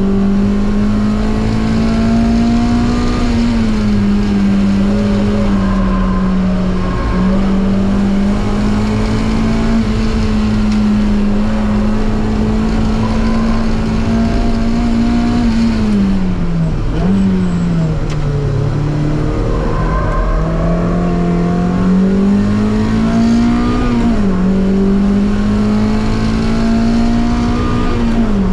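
Mazda MX-5's four-cylinder engine pulling hard in a race, its pitch climbing slowly and dropping sharply at each gearchange. About sixteen seconds in the revs fall away and dip twice before climbing again.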